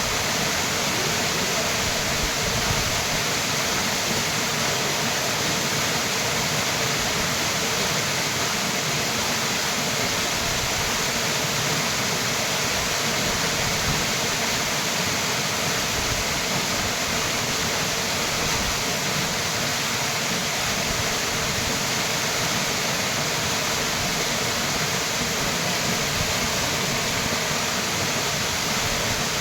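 Small waterfall splashing: a steady, even rush of falling water with no change or break.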